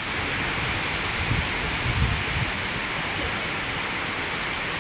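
Steady rain falling, an even hiss of rain on surfaces, with a couple of brief low bumps about a second and two seconds in.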